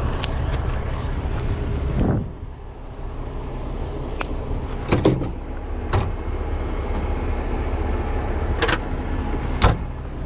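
Heavy tow truck's diesel engine running steadily during winching setup, with several sharp metal clanks and knocks over it; the engine sound dips briefly about two seconds in.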